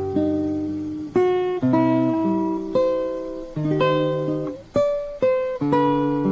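Background music: an acoustic guitar picking notes and chords, each note fading before the next is struck.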